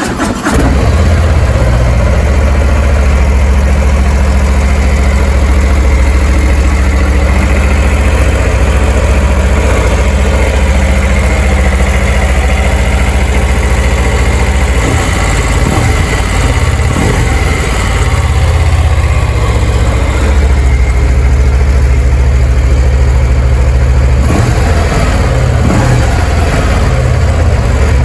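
Harley-Davidson CVO Street Glide's Milwaukee-Eight V-twin engine settling into a steady idle right after a cold start, its exhaust loud with a deep, even rumble.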